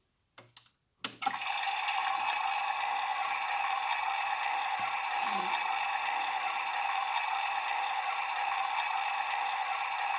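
Washing machine taking in water: a click about a second in as the inlet valve opens, then a steady hiss of water rushing into the drum.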